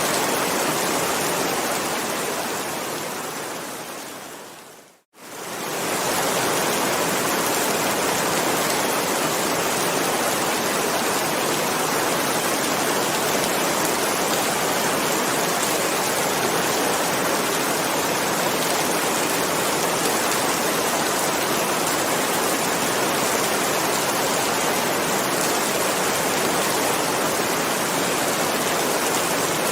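Steady heavy rain. About five seconds in, it fades out to a moment of silence and comes back within a second, as at the splice of a looped recording.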